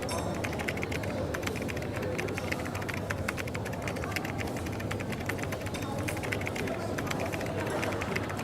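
Coffee shop ambience: a steady low hum and murmur of background voices under a continuous rapid patter of small clicks and taps.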